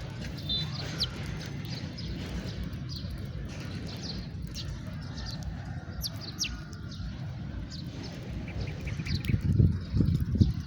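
House sparrows chirping: many short, sharp chirps, irregular and overlapping, over a steady low rumble of background noise that swells briefly near the end.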